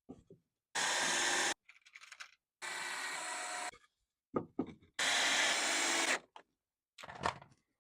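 A power drill running in three short bursts of about a second each, with a few knocks and clicks of wood and tool in between.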